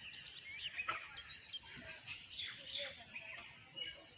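Steady high-pitched insect chorus with many short bird chirps scattered through it.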